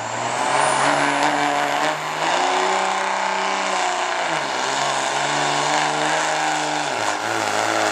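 Dodge diesel pickup's engine running under full load as it pulls the sled, with a high turbo whistle rising in the first second. The engine pitch steps up about two seconds in, falls near the middle, then drops sharply about a second before the end, which the announcer takes for the transmission shifting gears.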